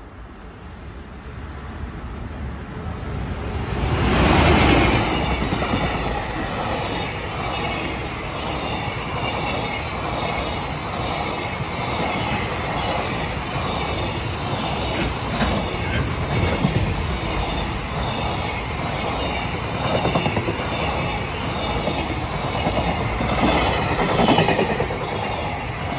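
EF210 electric locomotive hauling a long container freight train past at close range. The sound builds over the first four seconds to its loudest as the locomotive goes by, then the container wagons roll past steadily with a rhythmic clickety-clack of wheels over the rail joints.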